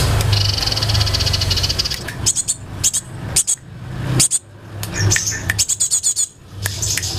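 Mixed songbird calls from a bird-training recording: a buzzy rapid trill for about the first two seconds, then a series of short, high, quick chirps, over a low hum.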